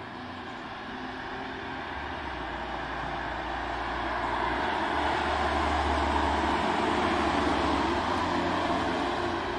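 Hyundai i30 N Fastback prototype driving past at speed, its 2.0-litre turbocharged four-cylinder engine and tyre noise growing louder, loudest about six to eight seconds in, then beginning to fade.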